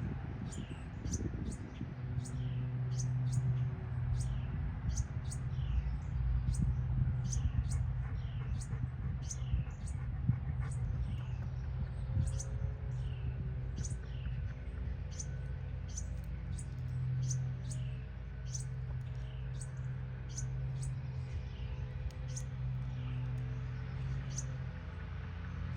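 A baby bird chirping over and over, short high peeps a little more often than once a second, each with a falling note, over a steady low hum.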